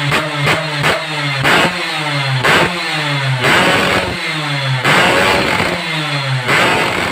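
Newly built engine revved in repeated throttle blips, its pitch jumping up and then falling back each time, several times in a row.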